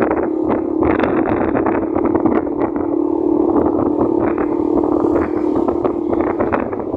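Motorcycle engine running at a steady road speed while riding, with wind rushing and buffeting on the microphone.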